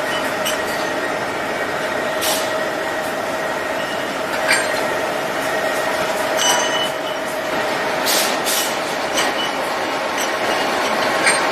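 Double-disc surface grinder running steadily while grinding connecting rods, a constant grinding noise with a steady tone through it. Several sharp metallic clinks stand out at irregular moments, the loudest about two seconds, four and a half seconds and near the end.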